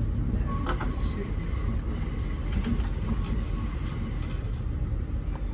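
Passenger train running along the line, heard from inside the carriage: a steady rumble, with a high-pitched whine from about half a second in that fades out shortly before the end.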